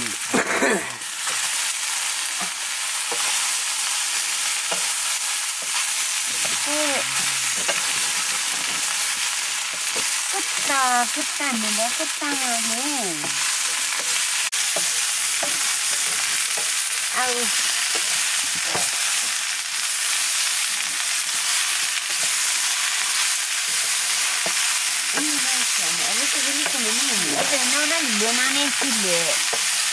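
Sliced potatoes sizzling steadily as they fry in a wok, stirred with a wooden spatula against the pan.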